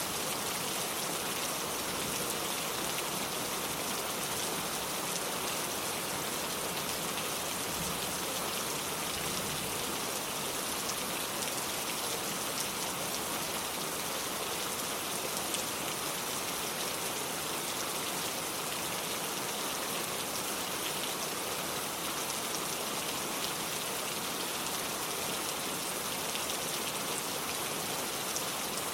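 Steady rain falling, a continuous even hiss with fine drop patter on a wooden porch and lake water.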